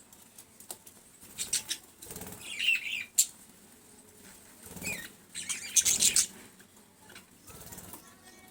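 Birds moving about: about four short bursts of rapid rustling and clicking, with a brief chirp between the first two bursts.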